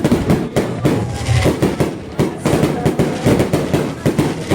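Fireworks going off in quick succession: a dense run of sharp bangs and crackles, several each second, with no let-up.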